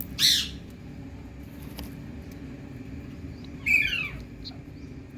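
Indian green parrot giving two short, harsh calls, one near the start and one about three and a half seconds later, over a steady low rumble.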